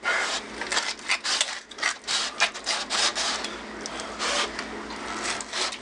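Kitchen knife sawing back and forth through a chicken wing at the joint: a run of short rasping strokes, about three a second. The knife is a little dull.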